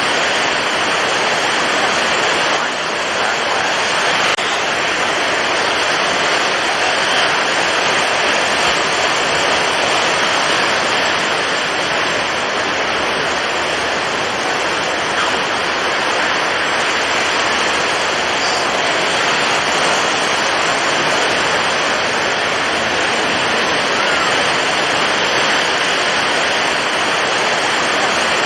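Storm at sea: strong wind and heavy surf blending into one steady, dense rushing noise, with no distinct breaks.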